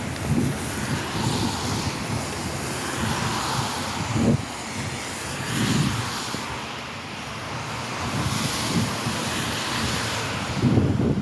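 Wind buffeting the microphone in gusts, with a steady outdoor hiss that swells and fades a few times like passing traffic.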